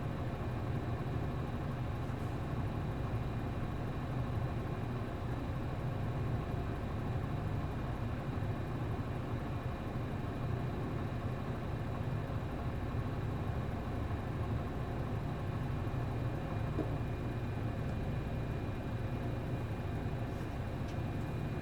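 A route bus's MD92TJ diesel engine running steadily, its pitch and level holding even with no revving or gear changes.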